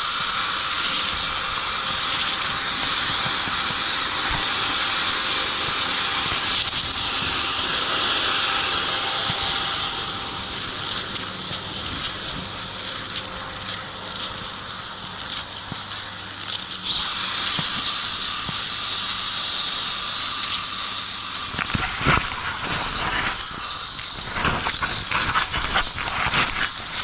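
Blizzard wind blowing hard with a steady hiss and a high whistle. It eases off about ten seconds in and picks up again a few seconds later. Near the end come several knocks or bumps.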